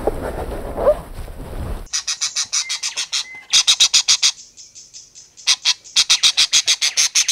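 Bird calling in rapid runs of short, high-pitched repeated notes, several a second, in three bursts with brief pauses, starting about two seconds in after a stretch of low, muffled noise.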